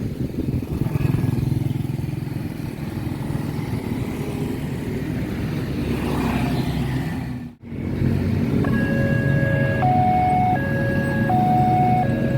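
Outdoor rumble of wind and road traffic, then, after a brief dropout about seven and a half seconds in, a railway level-crossing warning alarm starts, two electronic tones alternating high and low in a steady repeating pattern: the crossing signalling that a train is approaching.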